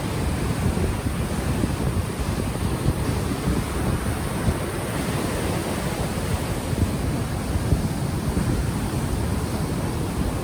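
Ocean waves washing ashore, mixed with steady low buffeting of wind on an unshielded microphone.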